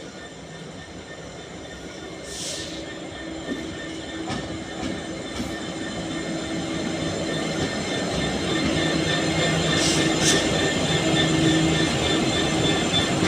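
Freightliner Class 66 diesel-electric locomotive's two-stroke V12 diesel engine running under power as the freight train approaches, growing steadily louder with a steady engine drone over the rolling rumble of the wheels. A few short high-pitched squeals come from the wheels about two seconds in and again near ten seconds.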